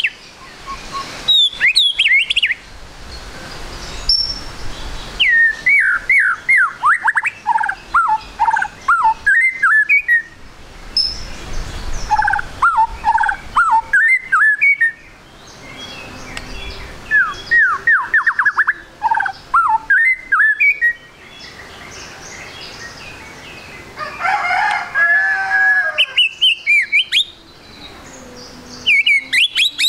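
White-rumped shama singing in loud bursts of rapid, sweeping whistled phrases separated by short pauses, with a harsh buzzy passage about five seconds before the end.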